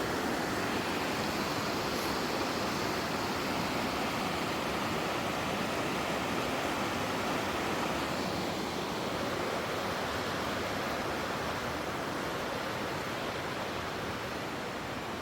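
Steady rushing noise with no distinct events, easing off slightly near the end.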